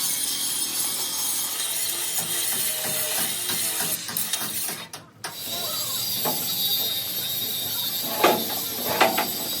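Steel-fabrication work noise: a steady high hiss that drops out briefly about halfway through, then a couple of sharp metallic knocks near the end.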